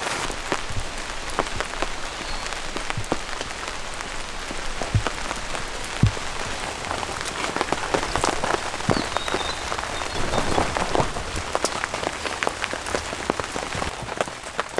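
Rain falling steadily, with many sharp drips and a few heavier drops knocking, notably about five and six seconds in.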